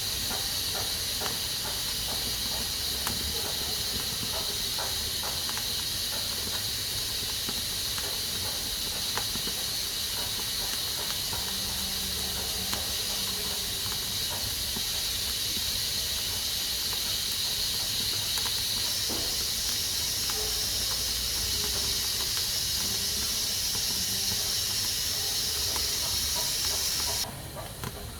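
Pressure cooker venting steam through its valve in a steady high hiss, with faint scattered clicks. The hiss drops off suddenly near the end.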